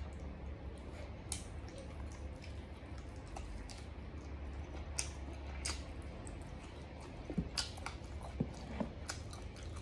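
Close-miked chewing of braised pork offal: wet, squishy mouth smacks and small clicks at irregular intervals, with a few sharper ones near the end, over a low steady hum.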